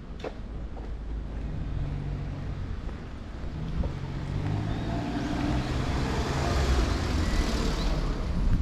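A motor vehicle driving past on the street: its engine and tyre noise grow louder over several seconds and are loudest near the end.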